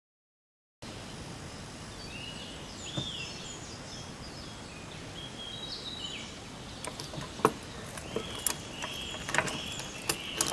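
Birds chirping and singing over a steady outdoor hiss, with several sharp clicks and knocks in the second half.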